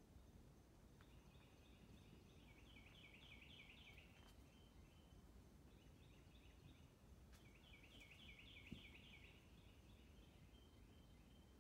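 Faint bird song in the forest: two runs of rapidly repeated high notes, each lasting about three seconds, over a soft low background hush. There is one soft tap about three quarters of the way through.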